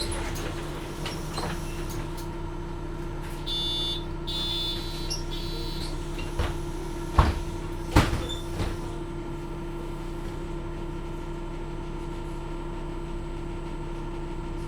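Interior of a MAN Lion's City NL253 Hybrid city bus with a steady electrical hum. About four seconds in there is a brief pulsed high-pitched sound, followed by a few sharp knocks about seven and eight seconds in, as the doors work.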